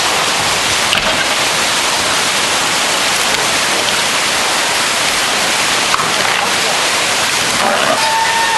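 Loud, steady rush of heavy storm rain. About eight seconds in, a steady tone begins and then starts to slide down in pitch.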